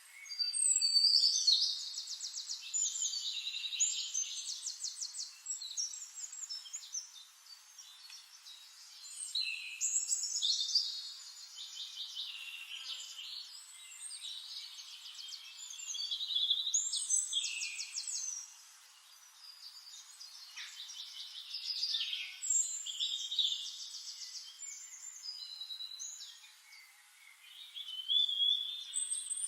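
A songbird singing phrases of rapid trilled notes, one phrase every six to seven seconds, each lasting two to three seconds.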